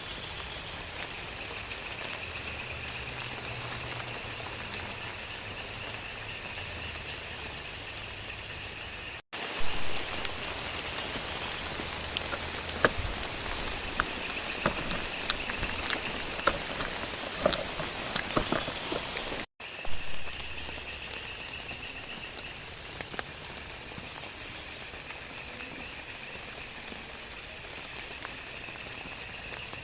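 Steady rain falling, with a continuous high-pitched drone behind it. Between two abrupt cuts in the middle, the rain is louder and closer, with sharp individual drops ticking.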